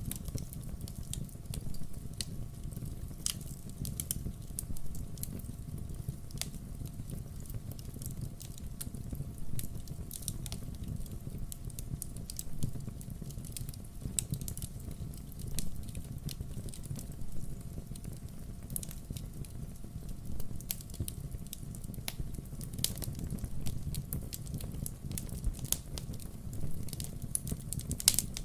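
Wood fire burning, with a steady low rumble and frequent irregular crackles and sharp pops of burning firewood.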